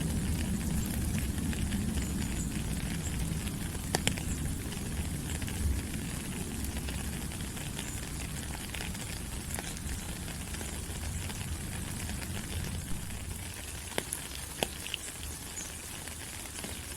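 Rain falling steadily on rainforest leaves, a continuous hiss with a few sharper drips striking close by. A low rumble underneath fades during the first few seconds.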